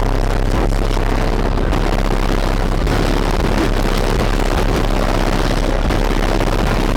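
Car audio system in a trunk played at extreme volume, its bass-heavy music so loud that it comes across as a steady distorted roar with a deep, sustained bass tone.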